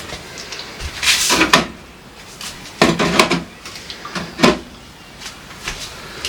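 Household containers being handled during a fridge clean-out: a series of knocks, clunks and a brief scrape as items are picked up, moved and set down, with the loudest cluster around a second in and another around three seconds.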